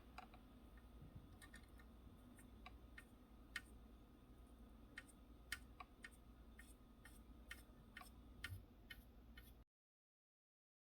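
Faint, irregular small clicks and ticks from soldering across circuit-board connector pins, over near silence. The sound cuts out to dead silence near the end.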